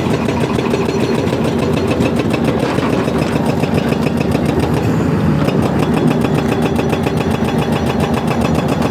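An excavator's diesel engine runs steadily while the bucket is worked, with a fine, even rhythm. The sound shifts briefly about five seconds in.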